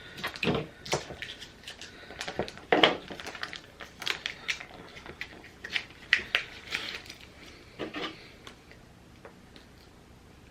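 Hands handling cookie pieces and their plastic packaging on a table: irregular clicks, taps and crinkles, dying away near the end.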